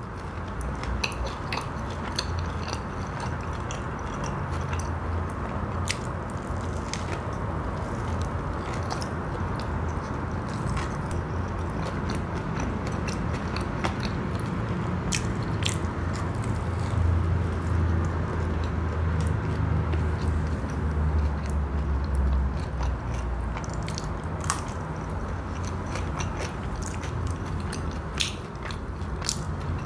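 Close-miked chewing and biting of a battered fried snack (Indonesian gorengan): continuous mouth sounds with scattered small clicks and soft crunches.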